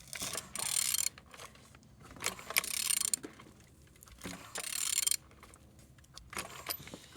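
Removed VW 1.9 TDI (BXE) engine being turned over by hand with a ratchet on the crankshaft. Ratchet clicks and rasping come in two main spells, about half a second in and about four and a half seconds in, with scattered clicks between them. The engine turns over freely, a sign it is not seized.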